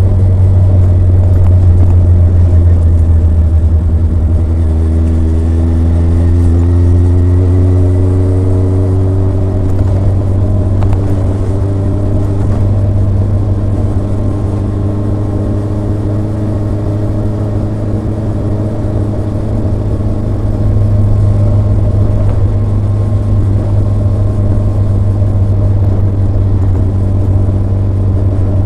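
Kawasaki ZRX's inline-four engine and exhaust while riding, a steady low exhaust note whose pitch climbs with the revs a few times.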